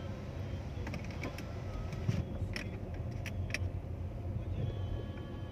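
City street traffic: a steady low rumble of passing vehicles, with a few sharp clicks in the middle.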